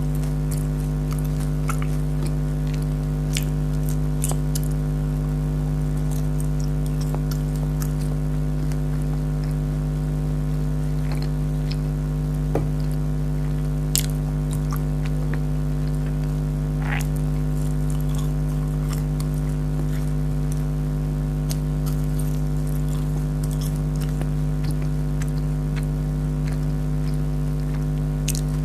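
Close-up sounds of someone chewing and biting crisp, syrupy jalebi: scattered small crunches and clicks over a steady, loud electrical hum.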